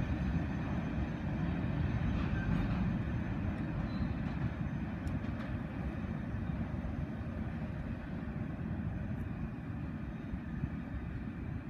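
Rear cars of a long manifest freight train rolling away on the rails: a steady low rumble of wheels on track that gradually fades.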